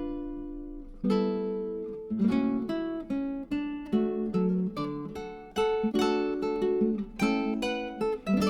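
Acoustic guitar music: plucked and strummed chords and notes, each starting sharply and dying away, several a second.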